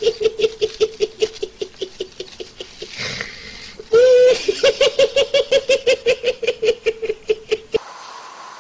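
A person laughing in a long string of rapid, even 'ha' pulses, about four or five a second, pausing for breath about three seconds in before starting again on a held note; the laughter cuts off abruptly near the end.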